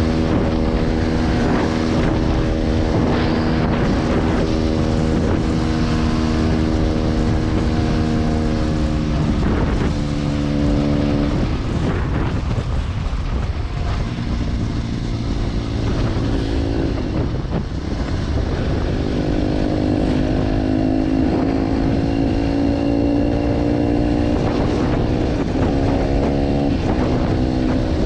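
Motorcycle engine with a G.P.R aftermarket exhaust, ridden at steady revs. The revs fall away about eleven seconds in, then build again and climb slowly, easing off once near the end.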